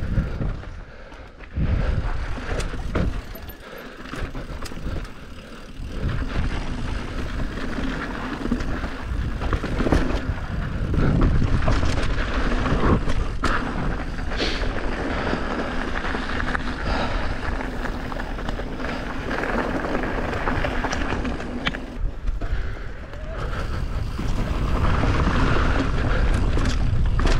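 Enduro dirt bike engine running as it is ridden over a rough trail, its note rising and falling with the throttle, with rumble and sharp knocks from the bumpy ground.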